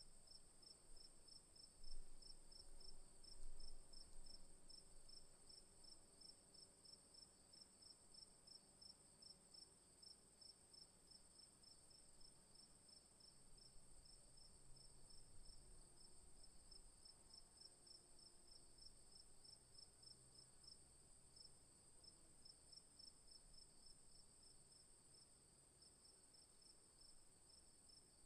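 Faint chorus of night insects in the bush: one high, steady, unbroken trill above a lower call that pulses several times a second without let-up. A low rumble swells briefly twice near the start.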